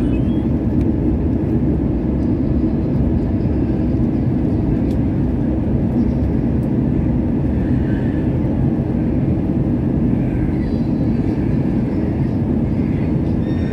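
Steady low rumble of a passenger airliner's engine and airflow noise, heard from inside the cabin.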